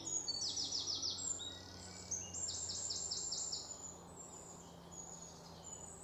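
A bird calling in two quick runs of high, short, downward-sliding chirps over faint outdoor background noise. The first run of about five notes comes about half a second in, the second of about eight notes about two seconds in.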